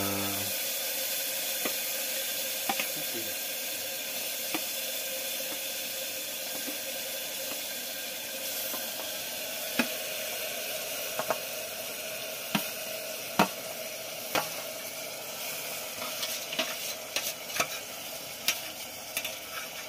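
Chicken pieces sizzling in hot oil in a pressure cooker pot, a steady high sizzle that slowly fades. Sharp clicks of a utensil against the pot come now and then, more often near the end.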